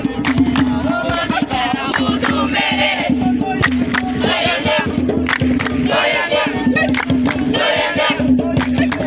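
A group of voices singing and chanting together over frequent sharp percussive strikes and a steady low tone.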